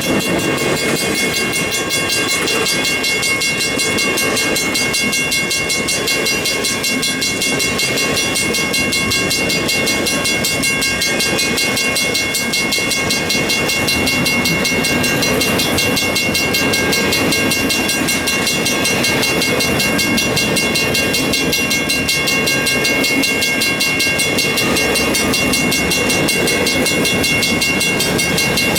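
Long freight train's cars rolling past on the rails in a steady, continuous rumble, with several steady high tones held above it throughout.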